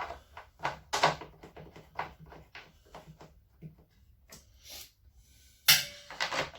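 Handling noise from washing-machine parts: a quick series of light knocks and clicks, with one louder clatter about five and a half seconds in.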